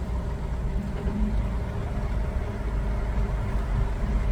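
Semi-truck's diesel engine running steadily at low speed, a deep even drone.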